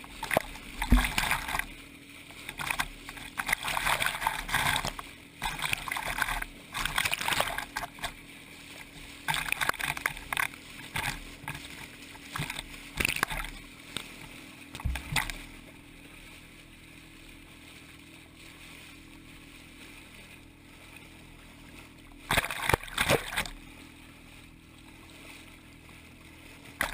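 Water splashing and sloshing against a small boat in irregular bursts, with a faint steady hum underneath.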